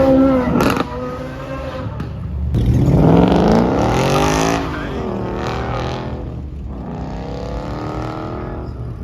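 Car engine revved hard several times, its pitch climbing and dropping, with a brief sharp crack under a second in.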